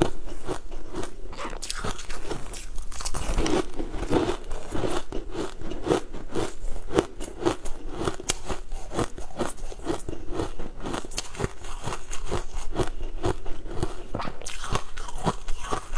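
Mouth crunching and chewing a crumbly baked treat, close to a clip-on microphone: a dense run of rapid, uneven crackles and bites throughout.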